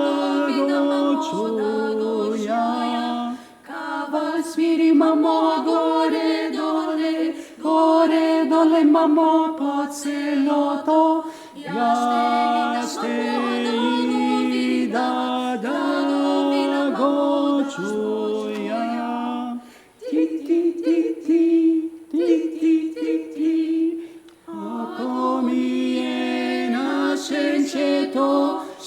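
A cappella vocal ensemble singing in harmony, several voices holding chords in phrases with brief breaks between them, and a choppier, more rhythmic passage past the middle.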